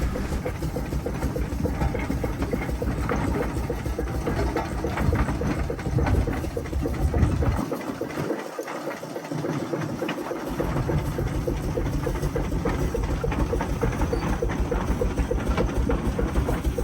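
Old engines running at a show, a steady rapid chugging; the deep part of the sound drops away for a couple of seconds about eight seconds in.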